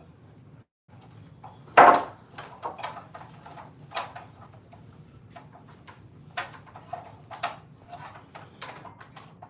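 Irregular knocks and clatters, as of building materials being handled, with one sharp, loud knock about two seconds in.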